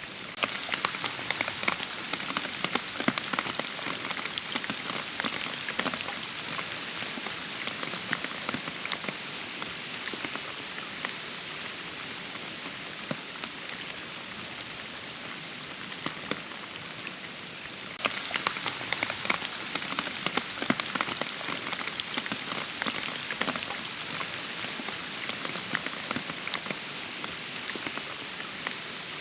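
Steady rain falling, with many separate drops heard on top of the steady hiss. It grows suddenly louder and denser about half a second in, eases somewhat midway, and swells again abruptly at about 18 seconds.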